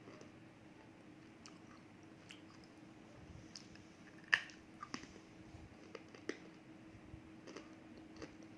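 A person biting and chewing pieces of roasted edible clay, with sparse crisp crunches. The loudest crack comes about halfway through, followed by a few smaller ones.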